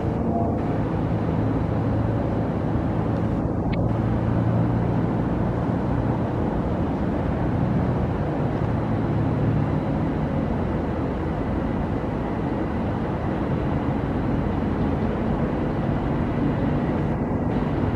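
Commuter train running, a steady rumble with a low hum that does not let up.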